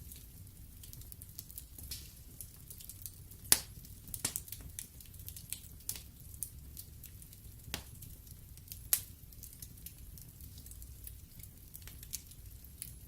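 Wood fire in a fireplace crackling: irregular sharp pops and snaps from the burning logs, the loudest about three and a half seconds in and another near nine seconds, over a steady low rumble.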